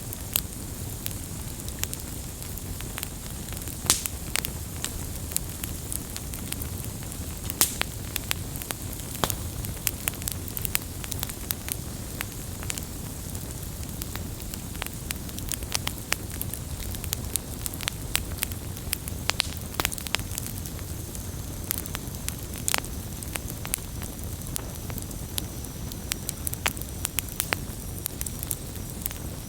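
Wood fire burning steadily, with irregular sharp crackles and pops over a low, steady rumble of flame.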